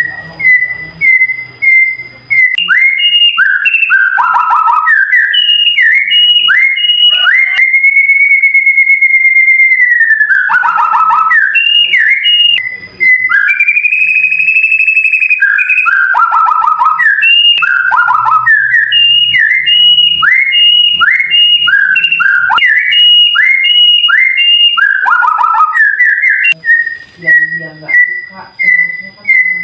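White-rumped shama (murai batu) singing a loud, continuous song of clear whistled phrases. Rapid down-slurred notes repeat, with two long held whistles about a quarter of the way in and about halfway.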